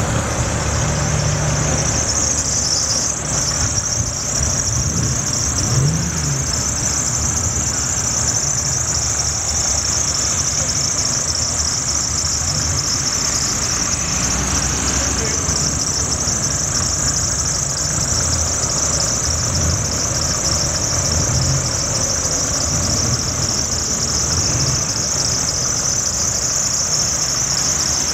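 Vintage car engines idling and creeping along at low revs in slow traffic, a steady low rumble under a constant high-pitched hiss.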